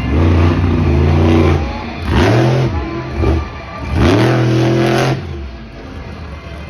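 Monster truck engine revving in several bursts: held high for over a second at the start, two short blips, another long high rev near the middle, then dropping back to a lower steady run.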